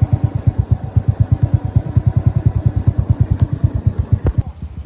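Motorcycle engine running at low, steady revs, an even rapid thudding of about ten pulses a second. It cuts off abruptly about four and a half seconds in.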